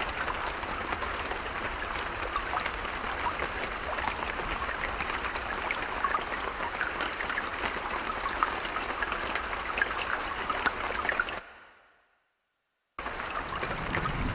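Steady rain with a patter of many small drop ticks. About three quarters of the way through it fades out into a second or so of complete silence, then the rain cuts back in.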